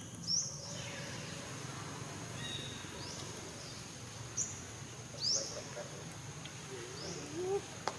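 Short, high, sweeping animal chirps every second or two over a steady high drone. A lower, wavering call comes near the end.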